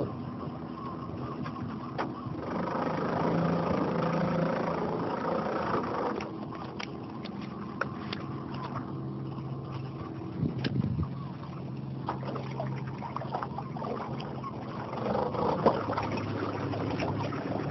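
Small boat's outboard motor running steadily at low speed, its pitch shifting briefly about ten seconds in, with scattered sharp clicks over it.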